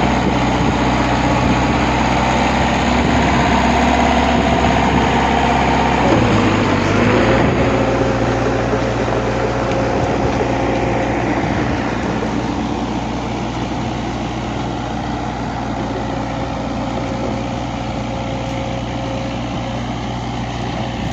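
A heavy engine running steadily. Its pitch dips and shifts about six to seven seconds in, and it runs a little quieter from about twelve seconds on.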